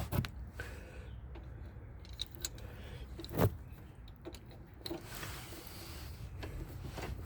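Scattered light clicks and taps of small metal parts and tools being handled and fitted by hand, with one sharper click about three and a half seconds in.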